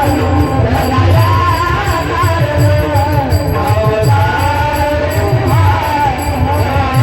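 Marathi devotional kirtan music: a wavering, ornamented melodic line, sung or played, over a steady hand-drum beat.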